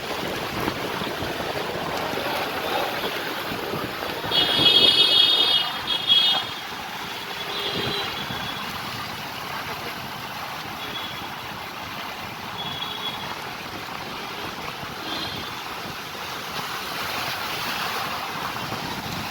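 Road traffic with a steady rushing noise. A loud vehicle horn sounds for about two seconds some four seconds in, followed by a few short, fainter horn toots.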